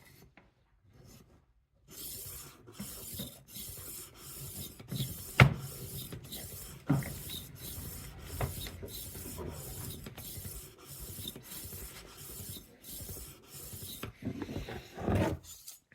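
A rolling knife sharpener's 2000-grit plate scraping along the edge of a 12-inch Henckels chef knife in a steady run of back-and-forth passes, about two strokes a second, with a few louder knocks among them. This is the fine-grit stage, refining the scratch pattern left by the 600 grit.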